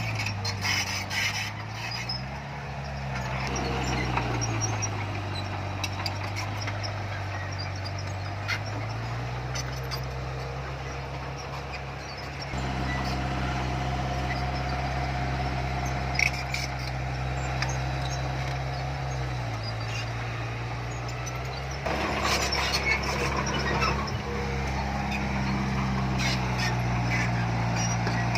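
Heavy diesel engine of earthmoving machinery running under changing load, its pitch dropping and rising again several times, with scattered clanks and knocks.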